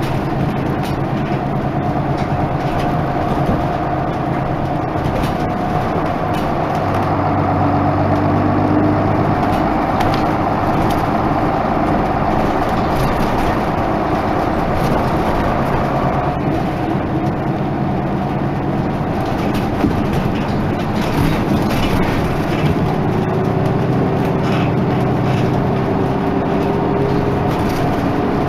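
Isuzu Erga Mio (KK-LR233J1) bus running, its engine note held steady and then shifting pitch in steps several times as the bus changes speed or gear.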